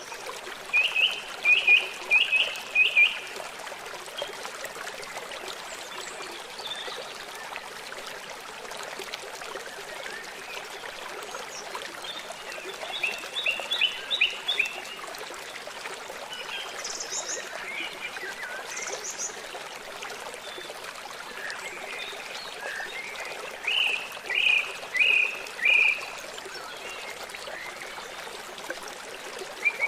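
Stream water running steadily, with a short series of four or five loud calls three times, about eleven seconds apart, and a few fainter high chirps between them.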